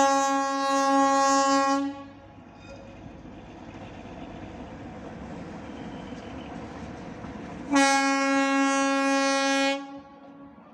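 Horn of a Darjeeling Himalayan Railway diesel locomotive: two long single-pitched blasts of about two seconds each, the second about six seconds after the first ends, with steady engine noise in between.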